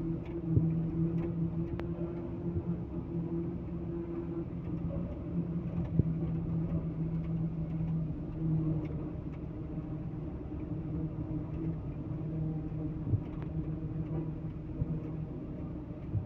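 Heavy diesel engine running steadily at a constant speed, a low even drone with a few light knocks over it.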